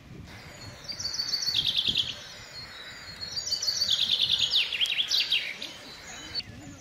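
A songbird singing two short phrases of fast repeated high notes that fall in pitch, the first about a second in and the second, longer one about three and a half seconds in.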